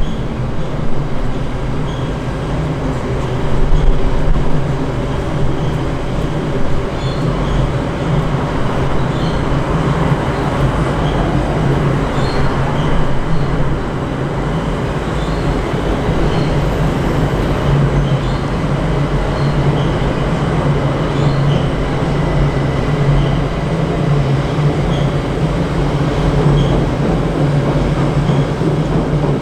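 Train running along the track: a steady low hum under continuous rail noise.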